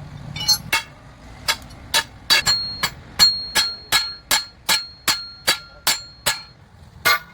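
Hammer striking steel in a long run of blows, about two to three a second, each blow ringing briefly with a high metallic tone.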